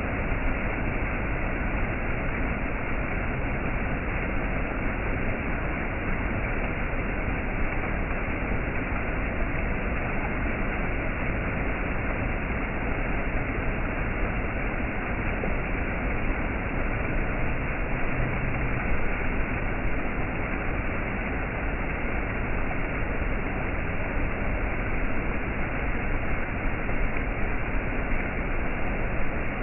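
Waterfall: water rushing steadily, an even unbroken noise with no separate splashes or other events.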